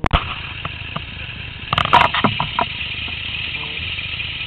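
Motorcycle engine idling steadily with the bike standing still, and a short louder clatter about two seconds in.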